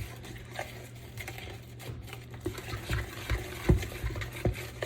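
Thick banana bread batter being stirred in a mixing bowl, with irregular soft knocks of the utensil against the bowl over a steady low hum.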